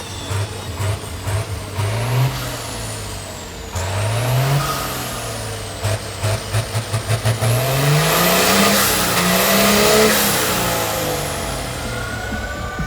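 Big truck engine revving up and down several times, with a high whistle rising and falling along with the revs and a quick run of short throttle blips in the middle.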